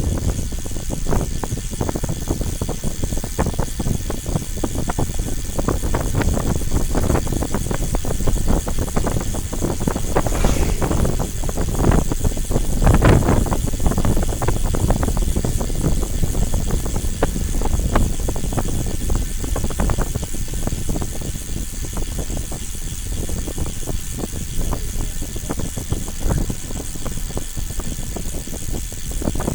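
Vehicle ride noise: a steady low rumble with frequent rattles and knocks, swelling louder about halfway through.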